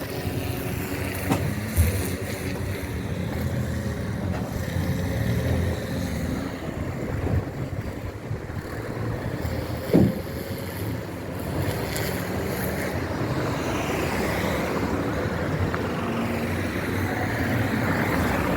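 Mercedes-Benz 2213 truck's diesel engine running under way, a steady low rumble mixed with road and wind noise, with a brief knock about ten seconds in.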